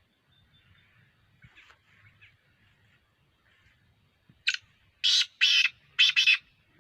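Black francolin calling: a short harsh note about four and a half seconds in, then three loud, grating notes in quick succession.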